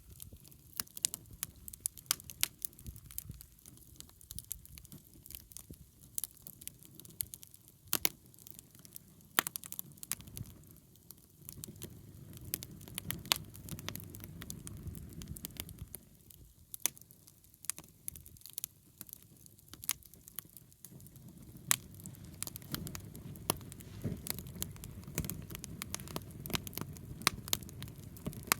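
Wood bonfire burning: irregular sharp crackles and pops from the burning wood over a low rush of flame that swells and fades.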